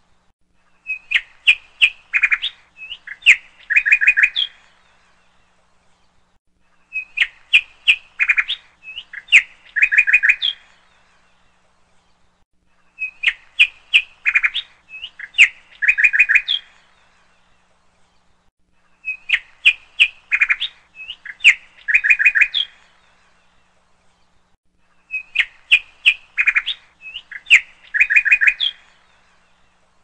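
A bird calling: a phrase of quick, sharp chirps and short notes lasting about three and a half seconds, repeated five times at even intervals of about six seconds with silence in between, each repeat the same.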